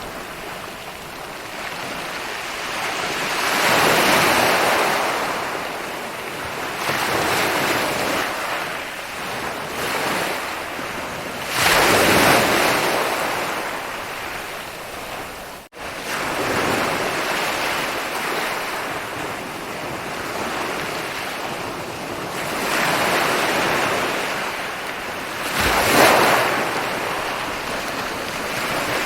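Ocean waves rolling in and breaking on a beach, the surf swelling and falling away every few seconds. Partway through, the sound cuts out for a split second, then resumes.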